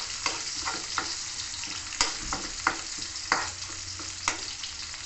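Sliced onions sautéing and sizzling in a metal wok on a gas stove, with a steady hiss. A utensil stirring them clinks and scrapes against the wok at irregular moments, about eight times.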